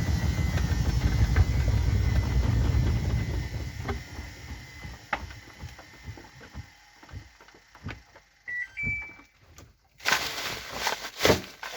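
Washing machine drum spinning with a loud low hum, then winding down from about three seconds in, its knocks growing sparser as it slows to a stop. Two short electronic beeps sound near the end of the run-down, then louder irregular noise starts about ten seconds in.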